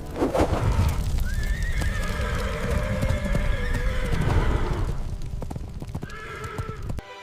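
Horse whinnying: one long wavering call, then a shorter one near the end, over a low rumbling noise.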